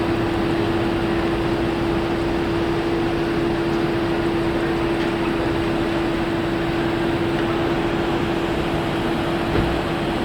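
Steady drone of a vehicle's engine running with a constant hum and an even rushing noise, heard from on board.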